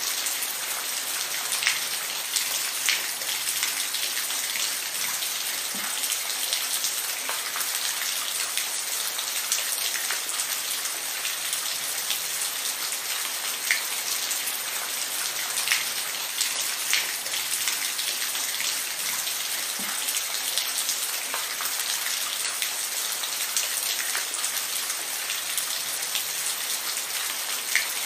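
Steady rainfall: an even hiss of rain with individual drops ticking sharply every second or so on a nearby surface.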